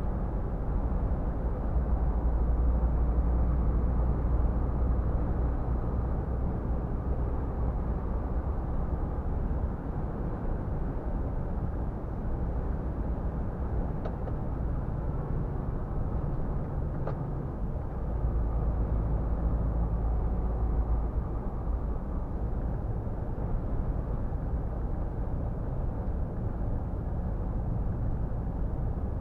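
Scania R450 truck at highway speed: a steady low engine drone with tyre and road noise, rising and easing a little in loudness, with two faint ticks a few seconds apart around the middle.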